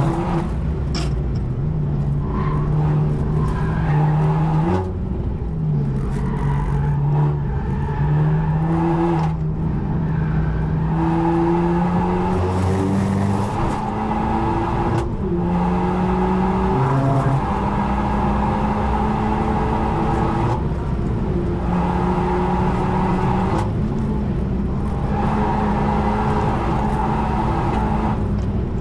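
Renault Mégane RS Trophy-R's turbocharged four-cylinder engine heard from inside the cabin, pulling hard at full throttle with the revs climbing. Its pitch drops sharply at each gear change, and it breaks off briefly a few times when the driver lifts off the throttle.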